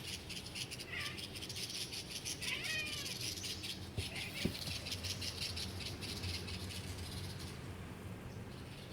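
Domestic cat chirping as if imitating birds: a short falling chirp about a second in and another brief chirp a couple of seconds later, over a steady high-pitched hiss. Two sharp clicks come a little past the middle.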